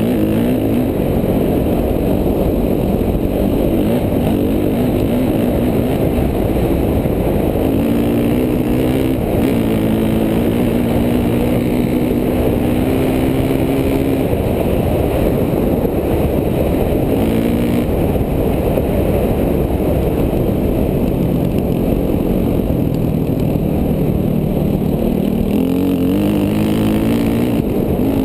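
KTM 450 dual-sport motorcycle's single-cylinder four-stroke engine being ridden, with a constant rumble and its pitch climbing and dropping several times as the throttle is opened and closed.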